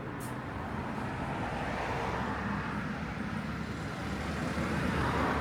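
Road traffic: a steady rush of car engines and tyres that swells as vehicles pass, about two seconds in and again near the end.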